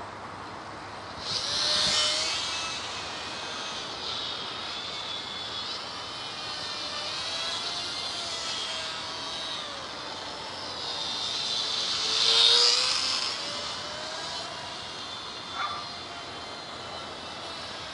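Small electric RC plane's motor and propeller whining as it flies around, growing loud as it passes close about two seconds in and again near twelve seconds, fading as it moves away in between, with slight shifts in pitch as the throttle and distance change.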